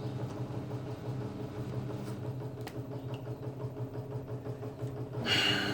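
A steady low machine hum, with a brief hiss near the end.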